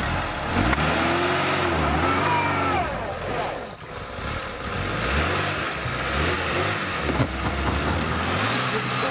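Lada Niva 2121's 1.6-litre petrol engine revving under load as it crawls off-road; the revs fall away briefly about three and a half seconds in, pick up again, and drop lower near the end.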